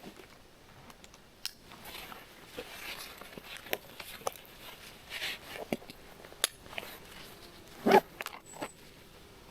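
Faint rustling with scattered small clicks and snaps, as of hunters shifting and handling gear in the woods, and one louder knock about eight seconds in, followed by a brief high chirp.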